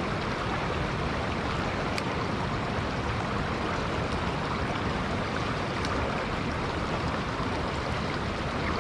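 Steady rush of water at a lake spillway, mixed with rain, with a few faint ticks about two seconds apart.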